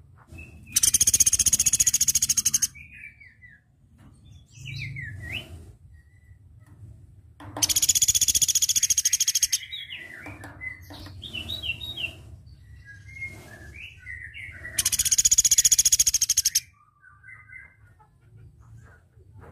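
Velvet-fronted nuthatch (platuk beras) singing. It gives three loud, rapid rattling trills of about two seconds each, several seconds apart, with short chips and twittering notes between them.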